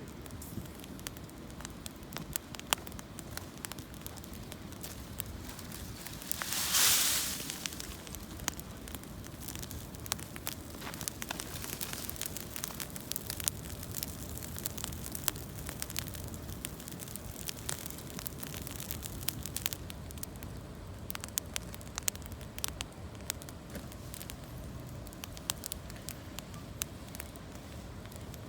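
Campfire of gathered branches and fallen leaves burning, with irregular sharp crackles and pops throughout. About seven seconds in there is a louder hissing rush that lasts about a second.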